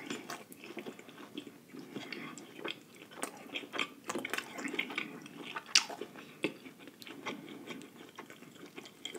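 Wet chewing and lip smacking on shrimp, with sticky, squishy clicks of fingers picking through butter-sauce-coated seafood; one sharper click about six seconds in.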